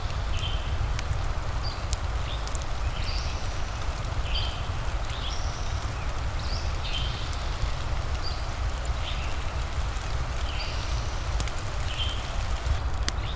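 Steady rain with a low rumble, and a fireplace crackling in scattered sharp pops. Short high chirps repeat about once a second.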